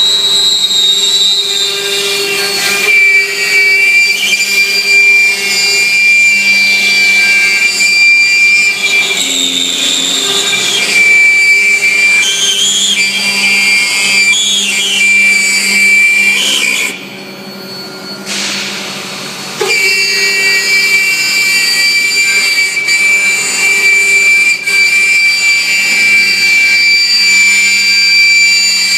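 High-speed milling spindle on an ABB IRB 4400 robot running with a steady high whine as it cuts, dropping away for about two and a half seconds just past the middle before resuming.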